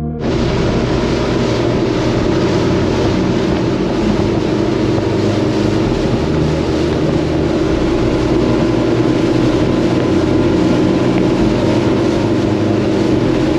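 A speedboat's 300 hp engine running steadily under way, with a steady hum and a rush of wind and water over it.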